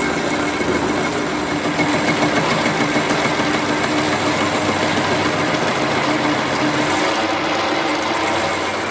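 Metal lathe running steadily, a constant mechanical hum with a fine rattle.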